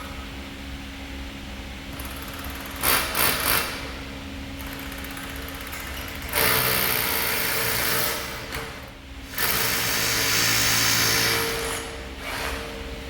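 A power tool run in short bursts: three quick pulses, then two longer runs of about two seconds each, over a steady low machinery hum.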